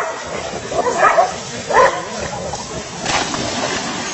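A dog barking and yelping in a string of short calls, with a harsh, noisy burst about three seconds in.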